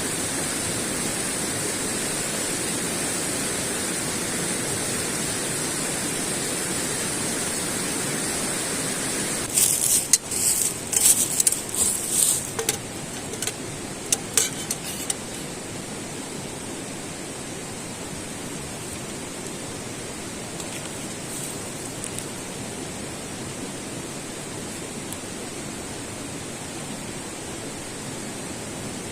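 Steady rushing, hissing noise. About ten seconds in comes a run of sharp clinks and knocks lasting a few seconds, after which the rushing carries on more quietly.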